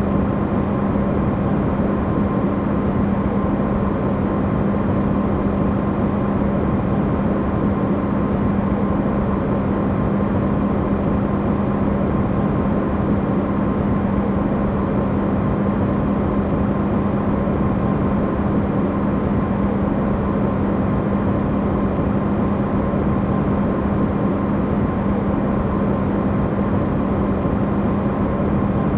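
Amplified refrigerator running: a steady, unchanging hum near 200 Hz under an even wash of low rushing noise, a fainter whine higher up.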